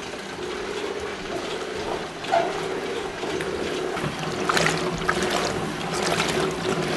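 Laundry water sloshing and churning in the tub of an old washing machine as its agitator runs, driven by pedal power through a belt and flywheel, over a steady mechanical whir from the drive. The splashing grows stronger about halfway through.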